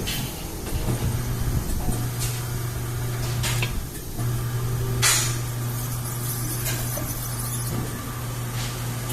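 A machine motor running with a steady low hum that stops briefly about three and a half seconds in and then starts again, with a short hiss about five seconds in.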